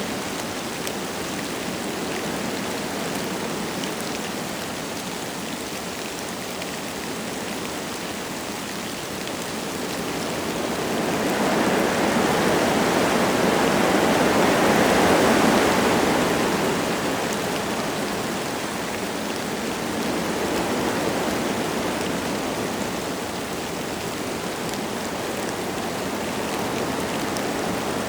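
Wind blowing through forest trees with light rain falling, a steady rushing noise. A gust swells about ten seconds in, is loudest a few seconds later, and dies back down.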